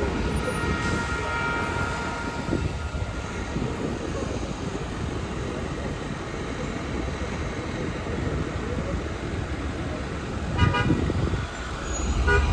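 Street traffic passing, with a steady tone fading out in the first few seconds and two short vehicle-horn toots near the end.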